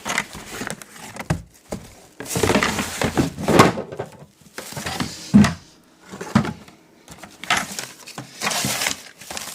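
Packaging being handled while a box of electrical parts is unpacked: irregular rustling in several bursts, with a few light knocks, the sharpest about five seconds in.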